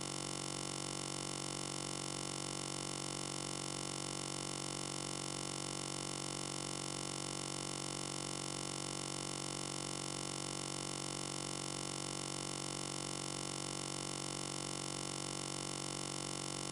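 A steady, unchanging electronic hum or static made of many fixed tones, with no change in level or pitch.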